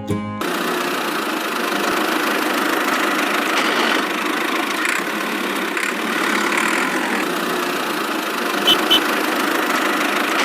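A small motor running steadily, with two short high blips near the end.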